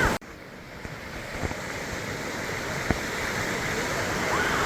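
Steady rush of a waterfall's falling water, which cuts off abruptly just after the start and comes back quieter, growing slowly louder, with a couple of faint clicks.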